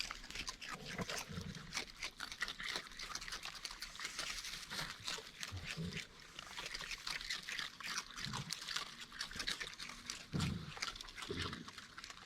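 Raccoons eating crunchy food (Fruit Loops and cookie bits) up close: a steady run of quick crunching and clicking chews, with a few soft low sounds mixed in.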